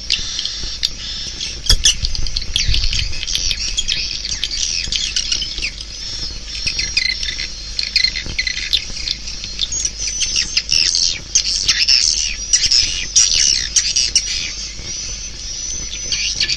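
Swiftlet calls: dense, rapid twittering chirps from many birds, thickening about two-thirds of the way in. This is a swiftlet lure recording of the kind played through tweeters in swiftlet houses to call birds in.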